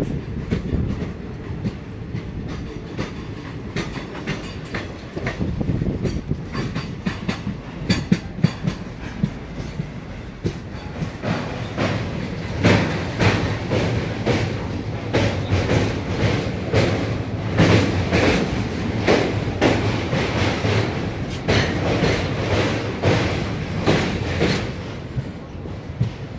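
Indian Railways passenger train running, heard from on board: a steady low rumble with the wheels clattering over rail joints. The clicks come thicker and louder from about halfway through.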